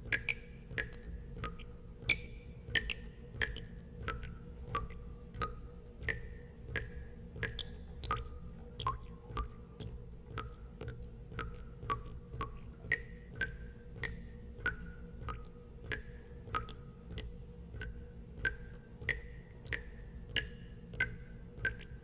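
Water drops falling into water at a steady rate of about one and a half a second, each a short plink whose pitch shifts up and down from drop to drop, over a steady low hum.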